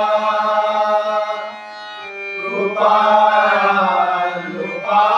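Devotional bhajan singing with accompaniment: a long held sung note that fades about a second and a half in. A new sung phrase with wavering, ornamented pitch starts about three seconds in.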